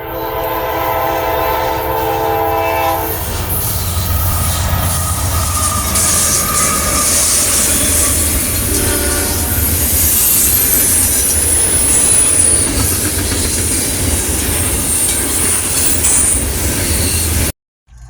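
A train horn sounds a chord of several tones for about three seconds, then the train passes with a steady rumble and clatter of wheels on rail. A short second horn blast comes about nine seconds in, followed by a high wheel squeal for a few seconds. The sound cuts off abruptly just before the end.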